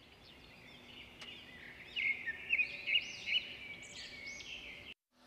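Birds chirping and twittering: a quick series of short, high chirps that grows louder about two seconds in and cuts off suddenly near the end.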